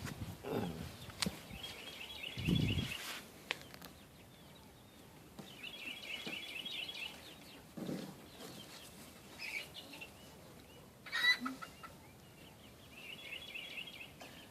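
Live poultry calling: runs of quick repeated notes, three times. There is some low handling rustle near the start.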